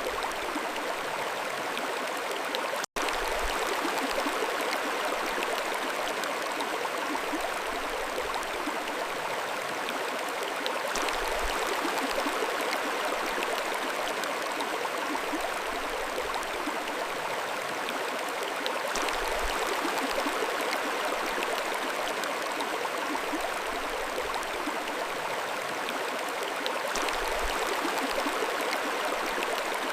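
Mountain stream flowing, a steady rush and burble of water, with a split-second dropout about three seconds in.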